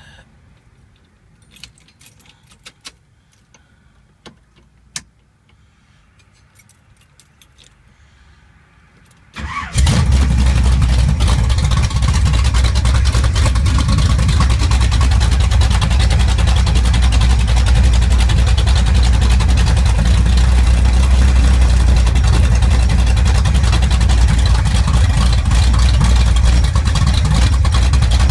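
A few faint clicks of the key at the ignition of a 1973 Camaro, then its big-block Chevy 454 V8 fires about nine and a half seconds in and runs loud and steady.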